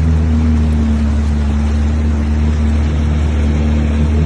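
Jet ski engine running steadily under way: a constant low drone over a continuous rushing noise.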